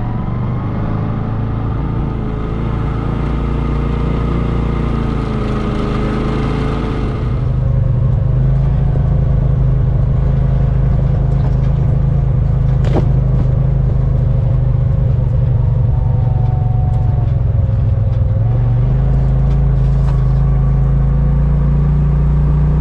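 Vehicle engine running steadily while driving on a dirt road, with a hissing road noise that stops about seven seconds in. There is a single sharp click near the middle, and the engine note shifts about two-thirds of the way through.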